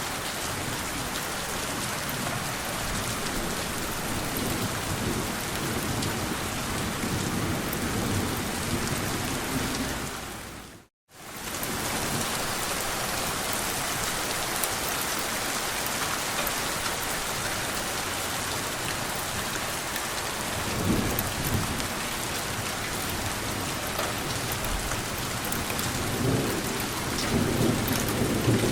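Steady rainfall hissing, with low rolls of distant thunder a few times, the strongest near the end. About eleven seconds in, the sound fades out to silence for a moment and comes straight back.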